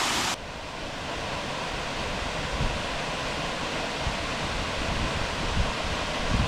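Waterfall rushing as a steady noise. It drops abruptly from a loud, bright rush to a softer one a moment in, with low gusts of wind buffeting the microphone.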